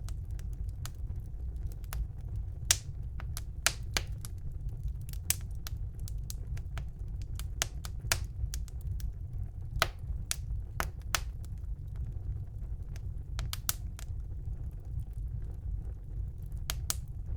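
Wood fire burning in a fireplace: irregular sharp crackles and pops, a few of them louder, over a steady low rumble of the flames.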